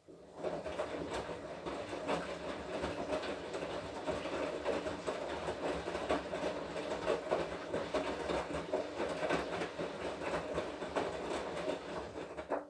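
Washing machine drum turning in one spell of the wash cycle: a steady motor run with clothes and water churning and many small knocks, starting suddenly and cutting off suddenly after about twelve seconds.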